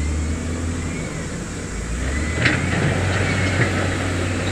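Heavy diesel earthmoving machinery running with a steady low rumble, with a sharp clank about halfway through and a lighter one a second later.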